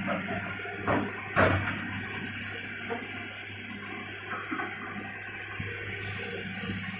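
Excavator's diesel engine running steadily under a rushing hiss, with two sharp knocks about one and one and a half seconds in.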